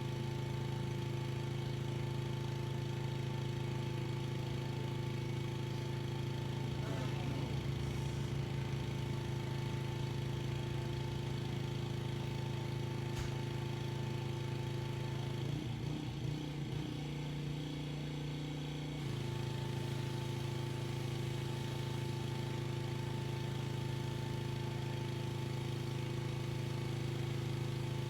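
Pressure washer's small engine running steadily. A little past the middle its note shifts and drops slightly for a few seconds, then settles back to the same steady drone.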